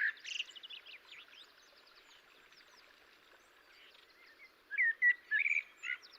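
Small birds chirping and calling over a soft outdoor hush. A quick run of chirps opens it, then a few faint scattered notes, and then a burst of louder short whistled calls near the end.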